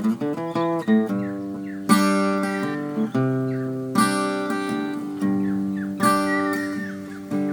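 Steel-string acoustic guitar played in a blues style: a full strummed chord about every two seconds, with single picked notes ringing in between.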